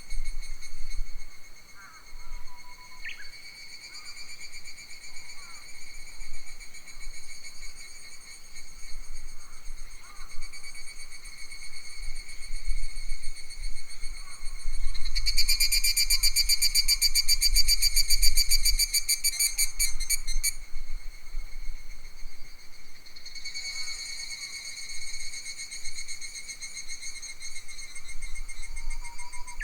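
Summer forest insect chorus: a steady, high buzzing drone that swells into a louder, fast-pulsing trill for about five seconds midway. A few short bird whistles and chirps and a low wind rumble on the microphone run underneath.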